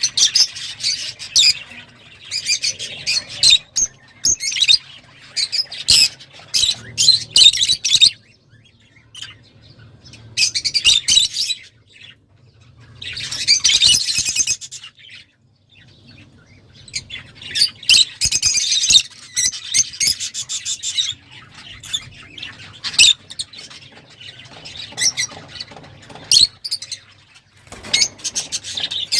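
Rosy-faced lovebirds chattering and squawking in high-pitched bouts of rapid chirps, several seconds long, with short pauses between the bouts.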